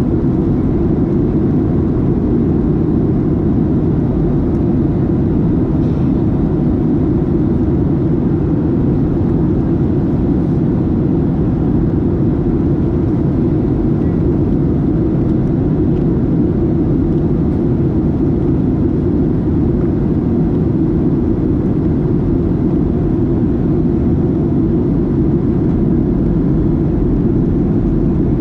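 Steady cabin noise inside a Boeing 737-700 on its descent: the even rumble of airflow and the CFM56 jet engines, heaviest in the low end, with no change in pitch or level.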